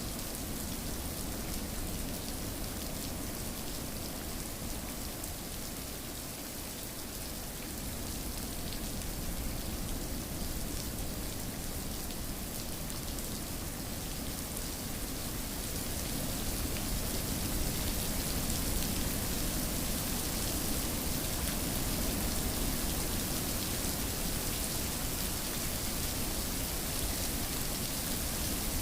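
Steady rain falling, an even hiss of drops on surfaces, growing a little louder about halfway through.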